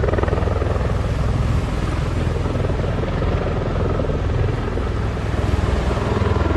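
Bell-Boeing V-22 Osprey tiltrotor flying past, its proprotors beating steadily with a heavy low thrum.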